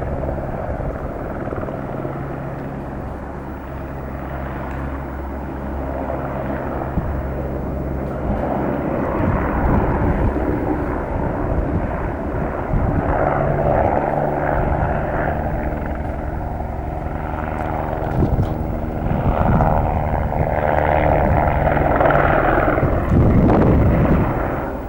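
Helicopter running: a steady low drone of rotor and engine with several held tones, under a rushing noise that swells and grows louder through the second half.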